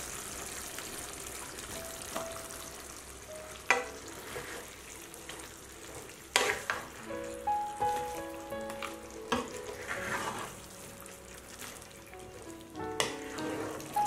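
Chicken and sliced tomato sizzling in a frying pan while being stirred with a wooden spatula, which knocks sharply against the pan four times. Soft background music plays faintly underneath.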